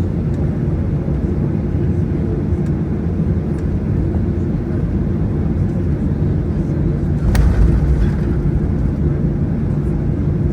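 Steady low drone inside the cabin of a Boeing 737-800, with a single sharp knock about seven seconds in.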